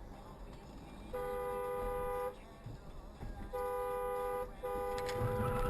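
Car horn honking three times, the last blast the longest, over low road noise.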